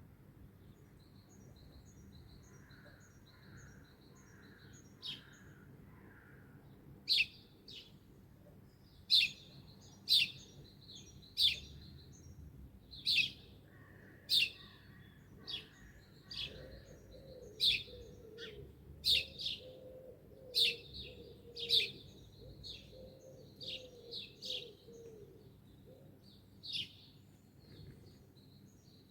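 Wild birds singing and calling. Quick high twittering notes come first; from about seven seconds in, a loud sharp call repeats roughly once a second, over a softer run of quick, lower notes in the middle.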